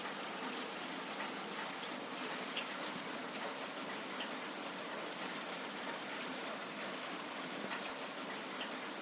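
Steady rain falling on a surface, an even hiss with small individual drops ticking through it.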